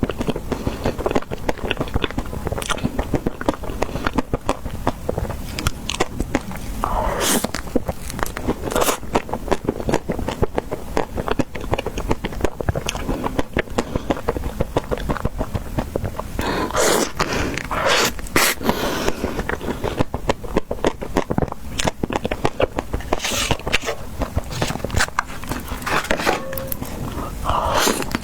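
Close-up eating of ice cream: steady chewing with many small crackles and scrapes, and a few louder crunching bites.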